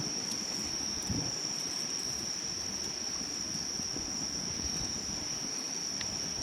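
A steady, unbroken high trill of crickets over the low, irregular rush and crackle of a wood campfire, with one sharp pop from the fire about six seconds in.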